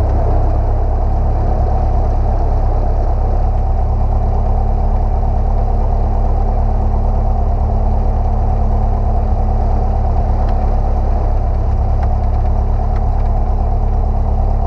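Single-engine light airplane's piston engine running steadily, heard from inside the cockpit.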